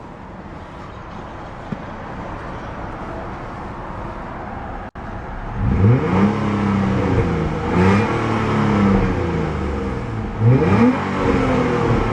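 Nissan Altima 3.5 SE-R's 3.5-litre DOHC V6 running steadily at idle, then, after a brief cut, revved several times with quick rises and falls in pitch, the last two blips in quick succession.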